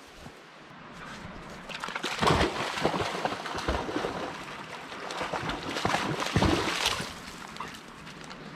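A dog bounding and splashing through shallow river water: a run of irregular splashes and sloshes starting about two seconds in and dying down near the end.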